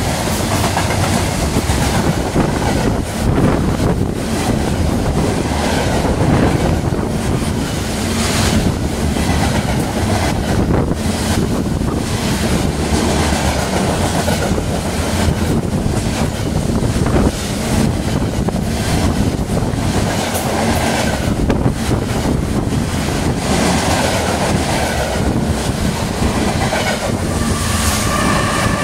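CSX freight train of covered hopper cars passing close by at speed: a loud, steady rumble of steel wheels on rail, broken by repeated clacks as the wheels cross rail joints.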